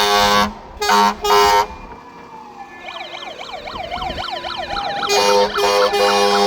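Fire engine horns sounding a steady chord, broken into two short blasts about a second in. From about three seconds, several fast up-and-down wailing sirens build up, and the horns sound again about five seconds in, over the sirens.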